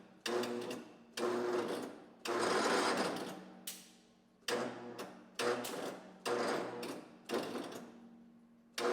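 Tecumseh engine of a Massey Ferguson MF-12 garden tractor being cranked by its electric starter in about eight short, strained bursts, each starting abruptly and slowing away. The crank sounds terrible and stalls as the engine comes up on compression, on a weak battery.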